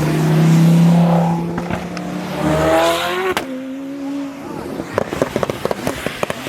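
A performance car's engine pulling hard past, holding a strong steady note and then rising in pitch, with a sharp crack about three and a half seconds in. From about five seconds on comes a rapid, irregular string of crackles and pops.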